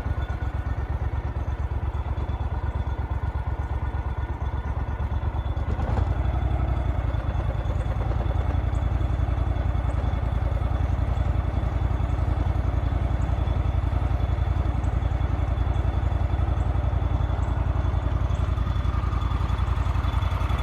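Engine running steadily at low speed with an even low throb, a little louder from about six seconds in.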